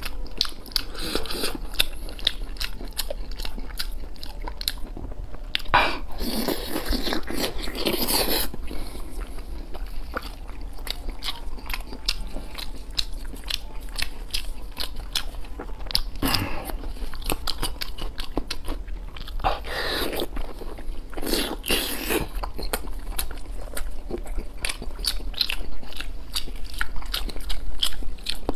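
Close-miked wet chewing and lip-smacking of fatty braised pork belly, with a steady run of small bite and mouth clicks. There are a few longer noisy stretches, the longest around six to eight seconds in.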